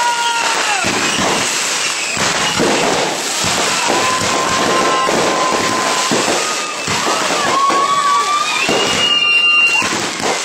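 Fireworks going off continuously: dense crackling and popping, with several whistling tones that hold steady or glide down in pitch.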